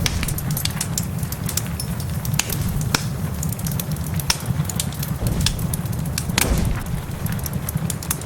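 Wood fire crackling in a fireplace: frequent sharp, irregular pops over a steady low rumble, with one louder, longer crackle about six and a half seconds in.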